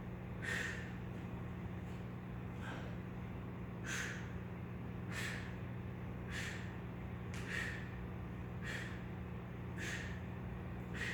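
A man's short, forceful breaths under exertion, one about every 1.2 seconds in a steady rhythm, over a constant low hum.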